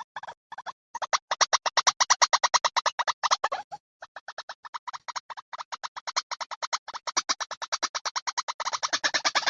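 White-breasted waterhen calls played as a lure recording: a fast, even run of harsh repeated notes, about eight to ten a second, broken by brief pauses about half a second in and about four seconds in, and growing denser near the end.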